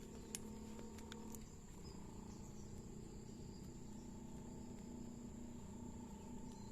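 Crickets chirring in one steady high tone over a low rumbling background, with a faint click about half a second in.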